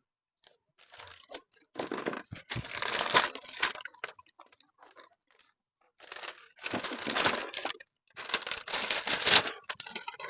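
Several bursts of rustling, crinkling noise, each about a second long, with short silent gaps between them.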